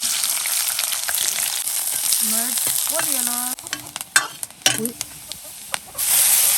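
Food sizzling as it fries in a pan. The sizzle stops abruptly about three and a half seconds in and starts again near the end. A short pitched call sounds over it between two and three and a half seconds, and a couple of sharp clicks follow.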